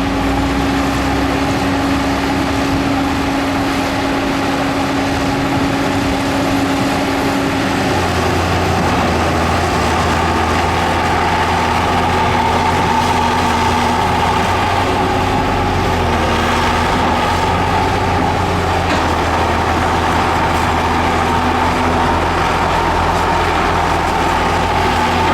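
Heavy diesel engines of an excavator and bulldozer running steadily; about a third of the way through the engine note changes, with a deeper hum and a higher steady whine taking over.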